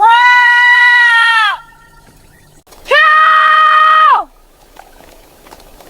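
A farm animal bleating: two long calls of steady pitch, the second higher and a little shorter, each dropping in pitch as it ends.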